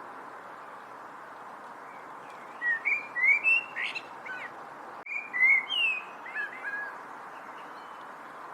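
A bird singing two short bursts of quick, sliding chirps and whistles, the first about two and a half seconds in and the second about five seconds in, over a steady background hiss.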